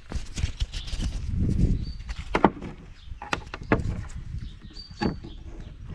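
Hand grease gun being pumped into a bulldozer steering clutch grease nipple, forcing out the old grease: irregular metallic clicks and knocks with a few short squeaks.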